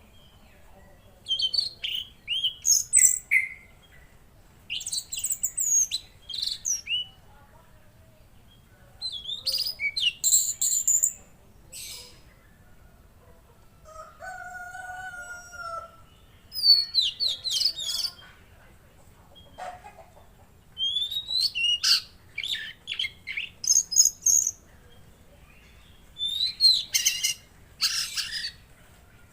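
Tledekan laut songbird singing in quick, high chirping and trilling phrases, each a second or two long, with short pauses between them. A lower, steadier call sounds once near the middle.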